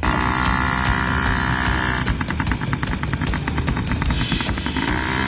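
Small engine of a peewee 50 kid's dirt bike running. A steady tone at first, then an even, fast putter from about two seconds in.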